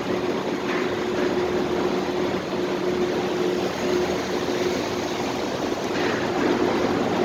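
Parking-lot ambience: a steady mechanical hum with a constant low tone under an even rush of noise, like idling engines or ventilation machinery.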